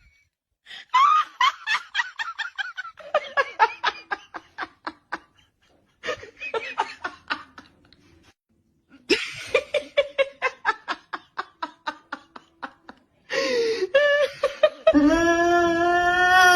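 People laughing hard in several bouts of rapid ha-ha pulses, with short pauses between them. A long, drawn-out, wavering cry starts near the end.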